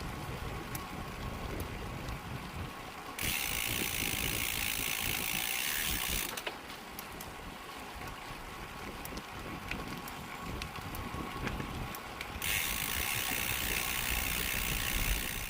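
Bicycle rear freewheel hub buzzing as the rider coasts, in two stretches of about three seconds each, over a steady wind rumble on the microphone.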